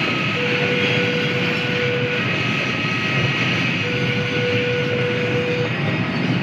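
Freight train running past, a loud steady rush of noise, with a thin steady tone that comes and goes every couple of seconds.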